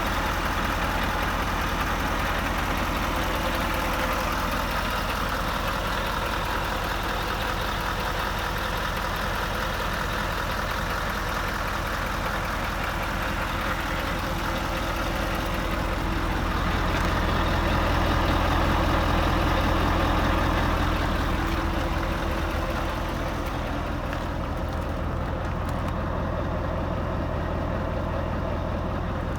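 Scania R520's V8 diesel engine idling steadily, growing a little louder for a few seconds past the middle.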